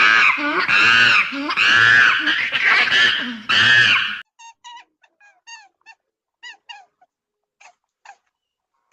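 An animal calling: about four loud, drawn-out, high-pitched calls, each rising then falling in pitch. After a sudden cut about four seconds in, a series of short, faint chirps follows.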